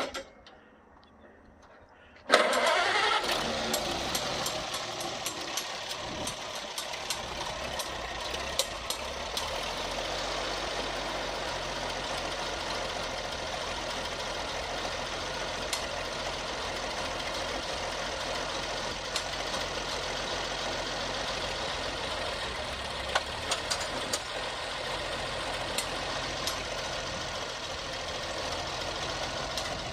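Antique tractor engine, push-button started, coming in suddenly about two seconds in and then running steadily.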